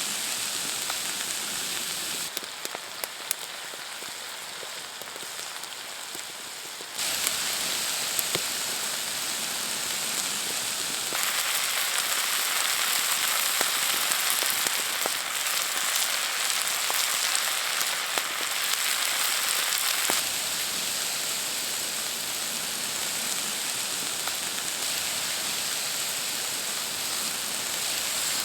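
Steady rain falling, an even hiss with a few sharp drip ticks. Its loudness drops and rises abruptly several times.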